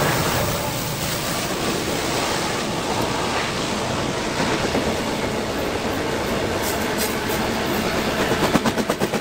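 Norfolk Southern freight train passing, led by several diesel locomotives: a steady rumble of engines and wheels on rail, with a quick run of wheel clacks over the rail joints near the end.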